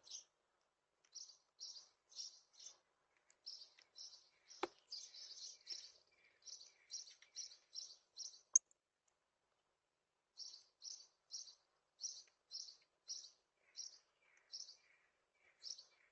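Small birds chirping: short, high chirps about two a second, with a pause of about two seconds in the middle. Two sharp clicks stand out, the louder one about eight and a half seconds in.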